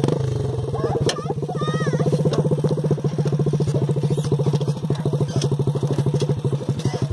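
A 125 cc trail bike's engine idling steadily, with an even, fast firing pulse and no revving.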